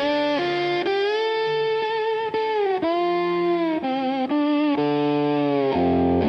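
Instrumental dark country music: a slow electric guitar melody of long, sustained notes with vibrato, ending on a fuller held chord near the end.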